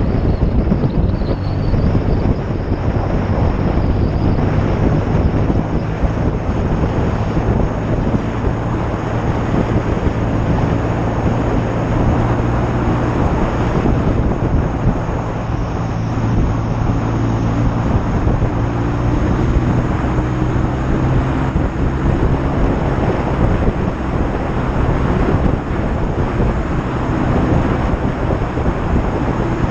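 1972 BSA Lightning's 650 cc parallel-twin engine running steadily while riding, with heavy wind noise buffeting the camera microphone.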